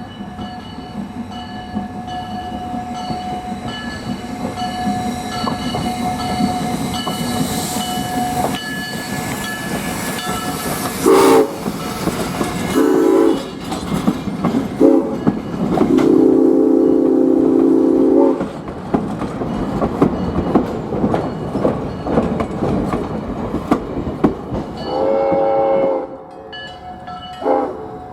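Steam whistle of Ventura County Railway No. 2, a Baldwin 2-6-2 steam locomotive, blown in a series of blasts: three short toots, then a long blast, and near the end another long and a short one, over the steady clatter of the train's wheels on the rails.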